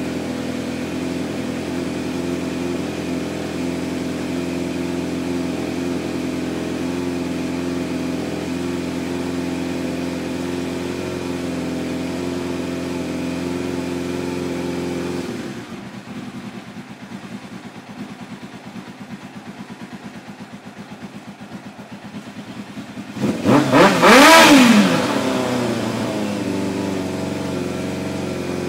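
Kawasaki ZX-7R inline-four motorcycle engine running steadily after a carburettor cleaning, then settling to a lower, quieter idle about halfway through. Near the end the throttle is blipped once, the pitch rising and falling quickly before it drops back to idle.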